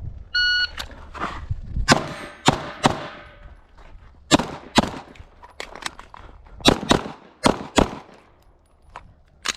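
Electronic shot timer beeps once, then a string of handgun shots follows over about seven seconds, with steel targets clanging among the first shots. There is a pause of about a second in the middle of the string, where a reload was planned.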